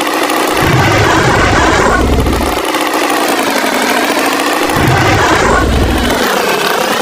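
Cartoon tractor engine sound effect running and revving, with surges about every two seconds.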